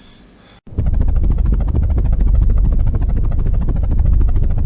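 Helicopter rotor running with a rapid, steady chopping beat, starting abruptly about half a second in.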